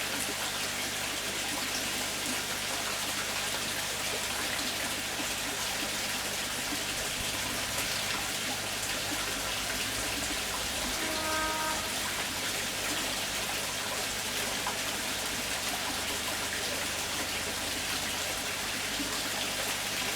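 Steady splashing water. About eleven seconds in, a brief pitched tone sounds over it.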